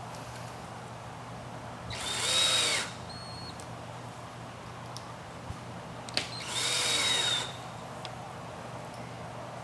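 Power drill driving stainless steel screws through woven hurricane fabric into a metal clip: two short runs of about a second each, around two and seven seconds in, each rising in pitch as the motor spins up and then holding. A steady low hum sits underneath.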